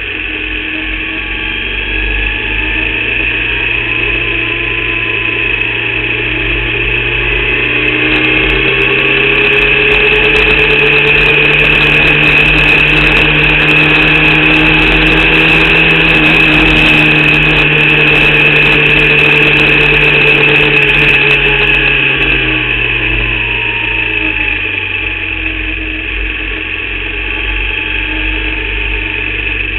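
Formula Vauxhall single-seater's 8-valve four-cylinder engine running hard under race load, its pitch climbing through the first third, holding high and loud, then falling away near the end as it comes off the throttle. The engine was misfiring and short of power in this race, limited to about 4500 rpm by an alternator/battery fault.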